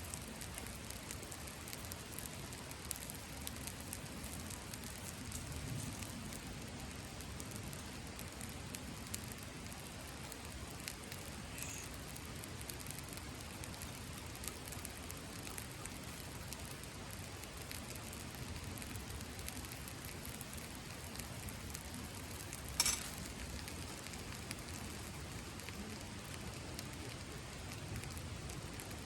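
Wood campfire crackling steadily with small snaps, and one louder, sharp pop late on.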